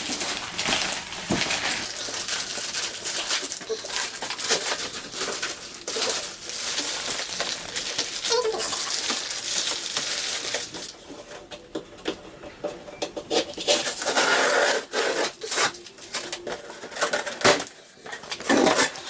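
Packaging being handled while a sewing machine box is unpacked: crinkling plastic and cardboard with scrapes and clicks, busiest in the first half and sparser after about ten seconds.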